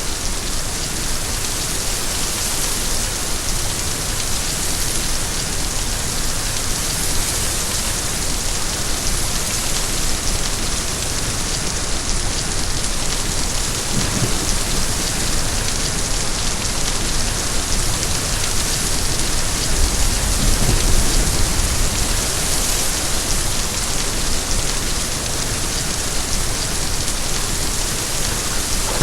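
Steady, heavy rain falling, a continuous even hiss. About two-thirds of the way in, a low rumble of distant thunder swells briefly under the rain.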